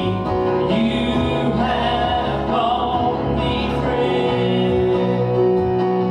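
Gospel worship music with a choir or congregation singing over sustained instrumental accompaniment.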